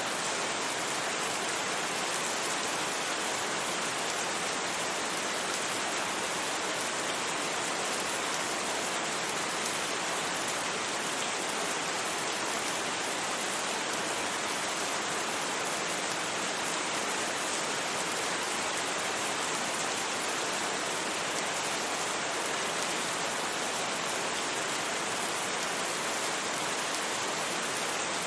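Steady rain falling, an even rushing hiss without distinct drops, thunder or any change.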